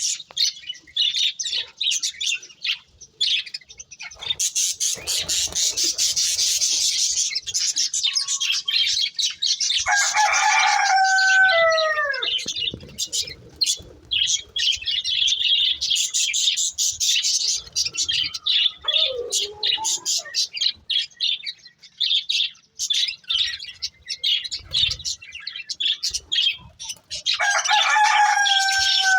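Pet budgerigars chattering and chirping in a rapid, continuous warble. A louder call slides down in pitch about a third of the way in and again near the end.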